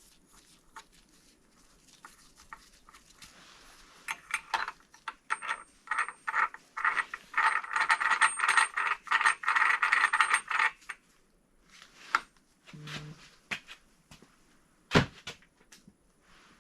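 Metal engine parts clinking and rattling as they are handled and fitted on a BMW N55 engine block, a dense irregular run of small metallic clicks through the middle, followed near the end by one sharp knock.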